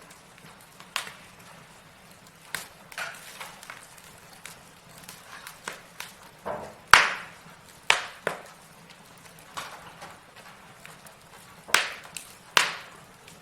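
Burning logs crackling in a fireplace: irregular sharp pops and snaps over a faint hiss, the loudest pop about halfway through and two more strong ones near the end.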